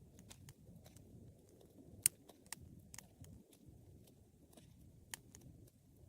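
Wood fire burning in a fireplace: a soft, steady low rumble of flames with scattered sharp crackles and pops from the burning wood, the loudest pop about two seconds in.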